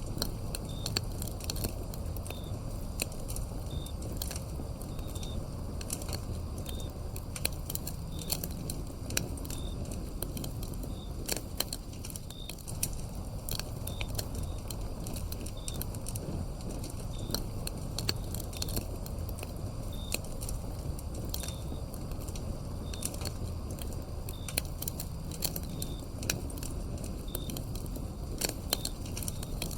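Wood fire burning with frequent sharp crackles and pops over a low steady rumble, and a cricket chirping in short regular chirps about once a second.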